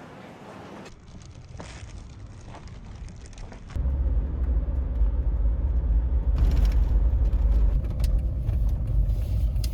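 Quiet background, then about four seconds in a loud, steady low rumble of a vehicle on the move begins suddenly and carries on.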